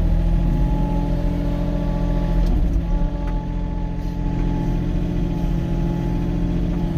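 Diesel engine of a Wacker Neuson compact machine running steadily under work, heard from inside its cab.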